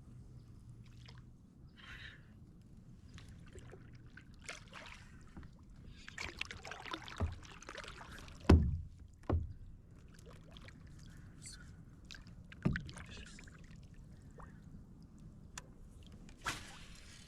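Pelican Catch 100 kayak being paddled: scattered splashes and drips of water from the paddle, with three sharp knocks on the kayak, the loudest about halfway through.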